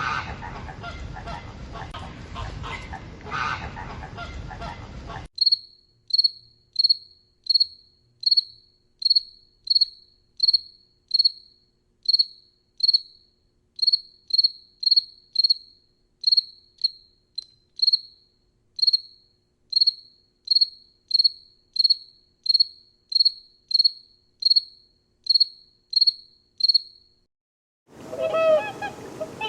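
A cricket chirping: short high chirps repeated about one and a half times a second for some twenty seconds. Before that, a rough noisy sound cuts off about five seconds in. Near the end a different, lower honking-like call begins.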